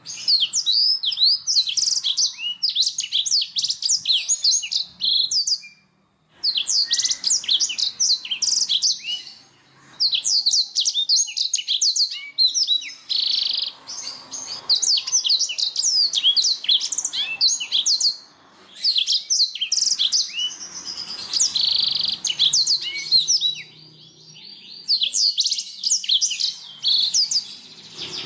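Domestic canary singing: long runs of rapid, high trills and chirps, broken by short pauses about six, ten, eighteen and twenty-four seconds in.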